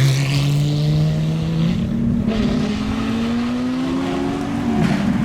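Lamborghini supercar engine pulling, its note climbing slowly and steadily in pitch as the car gains speed, growing louder and harsher near the end.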